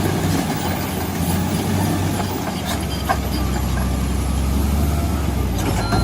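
Heavy earthmoving machine's engine running with a steady low drone that deepens and grows stronger about halfway through, with a few faint clanks.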